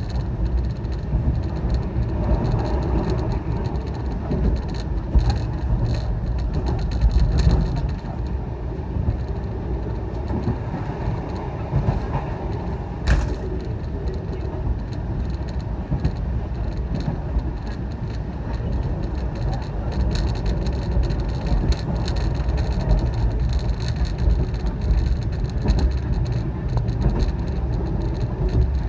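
Moving train running at speed: a steady deep rumble of wheels on the rails, with scattered faint knocks and one sharp click about halfway through.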